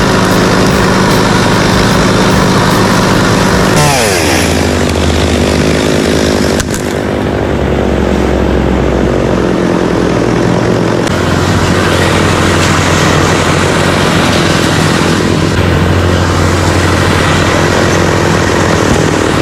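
Two-stroke gasoline chainsaw engines running hard, as in cutting wood; the engine pitch drops sharply about four seconds in, and the sound changes abruptly twice more.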